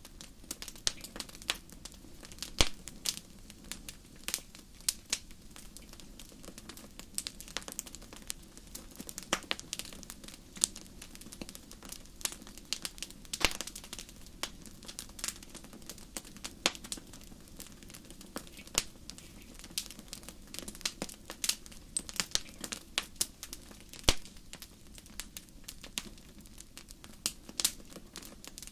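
Wood fire crackling, with many irregular sharp pops and snaps, a few louder ones, over a low steady rumble of the flames.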